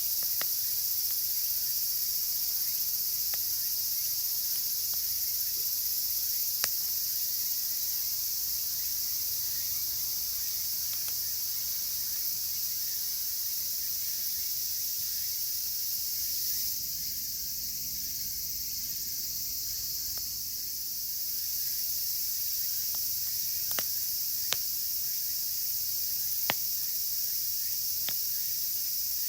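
A chorus of cicadas droning steadily and high-pitched, easing off briefly partway through, with a few sharp pops from a crackling wood fire.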